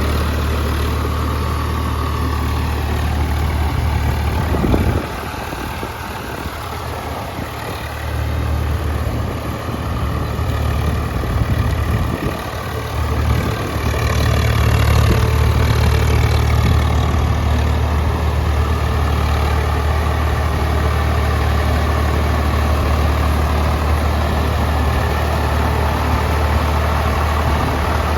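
Tractor diesel engine running steadily. A thump comes about five seconds in, the engine runs quieter for a few seconds after it, and from about fourteen seconds in it runs louder again.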